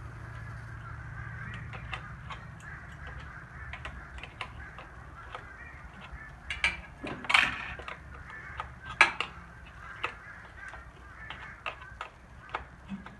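A flock of geese honking and calling overhead, with scattered sharp metallic clicks and knocks of hand tools, two of them louder about seven and nine seconds in.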